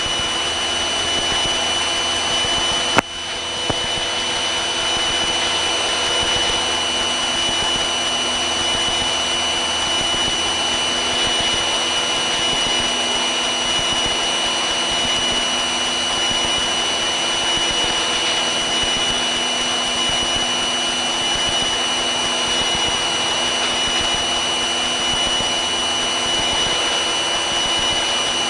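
Piper Cherokee's engine and propeller running steadily at climb power, heard from inside the cockpit as an even drone with a steady high whine over it. There is a single sharp click about three seconds in.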